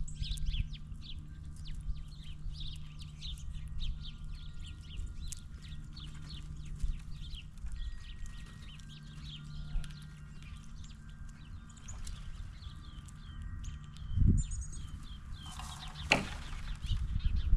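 Wild birds chirping at a feeder: many short, high chirps, thickest in the first few seconds, over a steady low hum. There is a low thump about fourteen seconds in and a brief harsh rush near the end.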